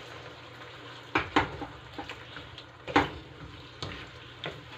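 Chicken in a spiced tomato sauce frying in a pan with a soft, steady sizzle, while a cooking utensil stirs it and knocks against the pan about five times, loudest about three seconds in.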